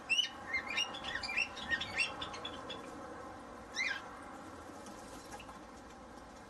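Small birds chirping: a quick run of short, falling chirps through the first three seconds, one more about four seconds in, then quieter.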